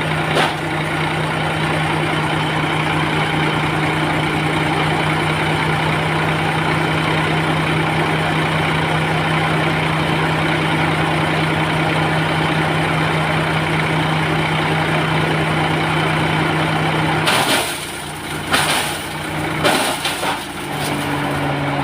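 Tractor engine running at a steady, even speed, driving a PTO-powered shredder. About seventeen seconds in, the steady note breaks off and the engine pitch drops, with several sharp knocks and crackles.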